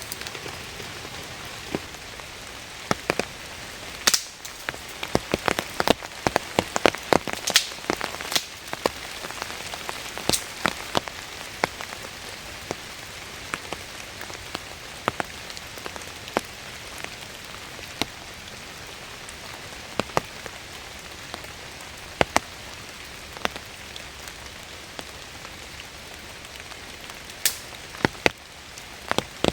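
Steady rain, with many sharp, separate drop impacts close by. The impacts come thickest in the first ten seconds or so and thin out after that.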